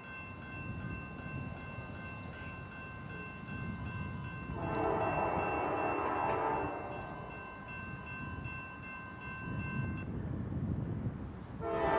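Approaching Norfolk Southern freight train led by a GE Dash 9-40CW diesel locomotive, its engine rumbling as its air horn sounds one long blast about halfway through and starts another just before the end.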